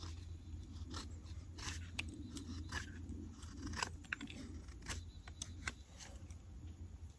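Carving blade cutting walnut wood in short, irregular strokes: about a dozen crisp cuts and scrapes, a few louder ones near the middle, over a steady low hum.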